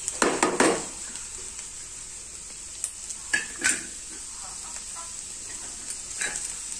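Anchovies and onions sizzling in a metal pan while a wooden spatula stirs and scrapes them. A loud cluster of scrapes and clatters in the first second, as the fish go in, and a few shorter scrapes around the middle and near the end.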